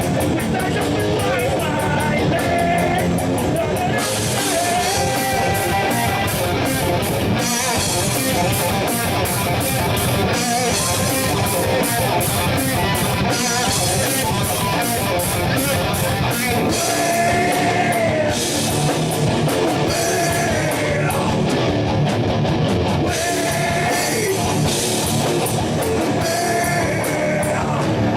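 Rock band playing live: electric guitar melody lines over a drum kit keeping a steady beat on the cymbals.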